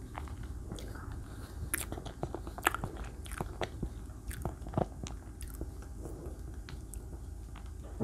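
Close-miked chewing and mouth sounds of someone eating chocolate layer cake, with many scattered sharp wet clicks.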